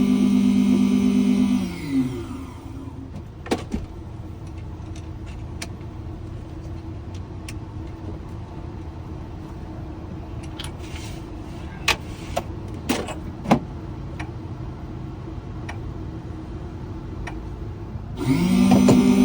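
Key-cutting machine's electric motor running with a steady hum, then switched off about two seconds in and winding down with falling pitch. A few sharp clicks and taps of handling follow, and the motor starts up again near the end.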